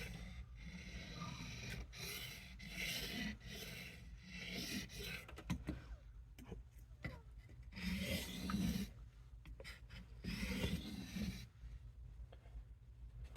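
Steel knife blade being stroked along a sharpening stone at the tip: a series of gritty scraping strokes in irregular runs that stop about two seconds before the end.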